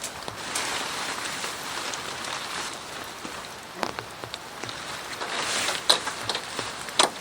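Steady rain falling, with scattered heavy drops striking a surface in sharp taps, two louder ones near the end.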